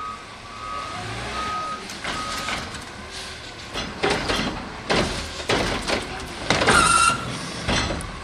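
Front-loading garbage truck: its reversing beeper sounds for the first couple of seconds, then a run of metallic clanks and bangs as it works, with the loudest burst about seven seconds in.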